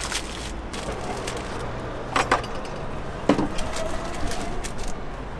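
Scattered clicks and knocks over a steady background hum, with two louder knocks about two and three seconds in.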